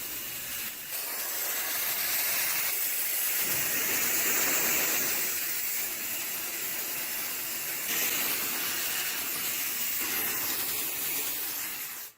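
A steady hiss, strongest in the high frequencies, that swells and eases slightly and cuts off suddenly at the end.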